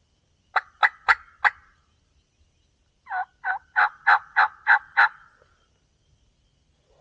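Turkey yelping: a run of four sharp yelps, then after a short pause a longer run of seven, about three a second.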